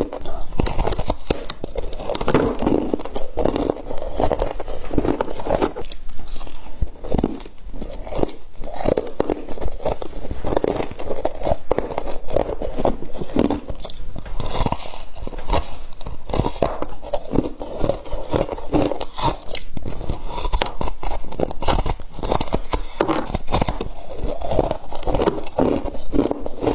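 Frost being bitten and chewed up close, a continuous dense crunching and crackling.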